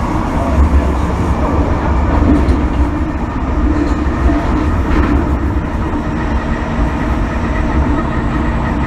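MTR M-Train electric multiple unit running along the track, heard inside the passenger car: a steady, loud rumble of wheels and running gear.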